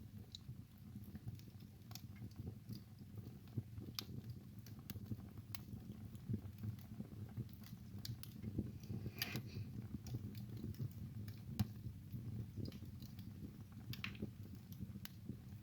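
Wood fire burning in a fireplace: a low steady rumble of flame with scattered crackles and sharp pops at irregular intervals.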